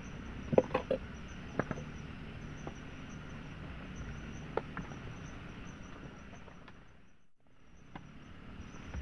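Steady chirring of insects over a background hiss, with a few sharp knocks and clicks, several close together about a second in and a couple more later. The sound drops away briefly past the middle, then returns.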